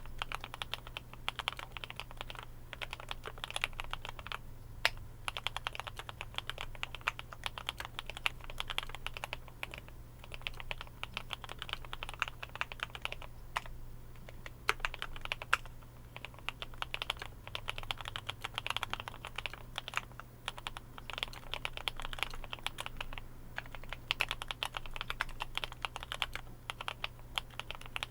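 Typing on a Glorious GMMK Pro mechanical keyboard fitted with lubed Kailh Cream linear switches and EVA foam: a fast, continuous run of key presses with a few brief pauses.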